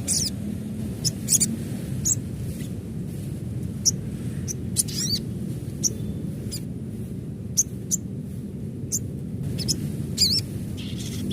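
Adult sogon (sogok ontong) calls: short, sharp, high chirps at irregular intervals. A quick warbling trill comes right at the start and another about ten seconds in, over a steady low hum.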